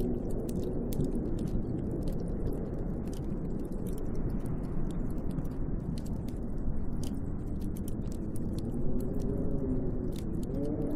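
Snowstorm wind blowing steadily, a deep rushing noise with scattered sharp ticks. Near the end a wavering howl rises and falls in pitch.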